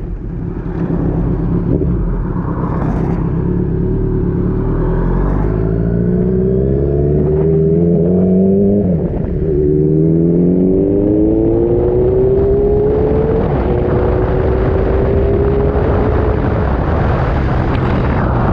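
Kawasaki Z900's inline-four engine pulling under acceleration, its pitch rising steadily through each gear and dropping sharply at gear changes about nine and eleven seconds in. A wind rush builds over the last few seconds as speed climbs.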